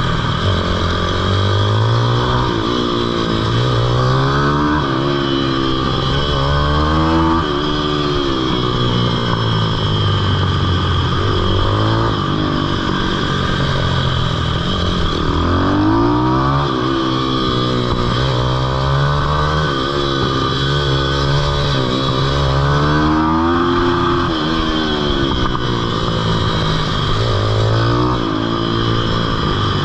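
Pitbike engine revving up and down over and over while being ridden, its pitch climbing and dropping every couple of seconds through acceleration and gear changes.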